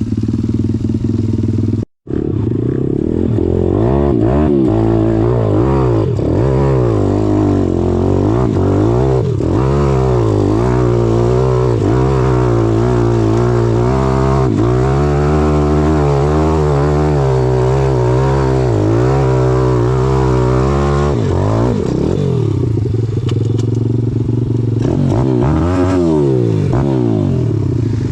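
Pit bike engine revving hard under a rider, its pitch rising and falling over and over with throttle and gear changes. The sound cuts out for an instant about two seconds in.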